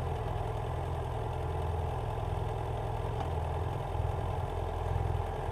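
BMW F800GS Adventure motorcycle's parallel-twin engine running steadily at low revs.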